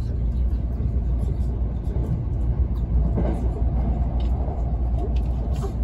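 Steady low running rumble inside an E657 series electric express train as it runs at speed through a station.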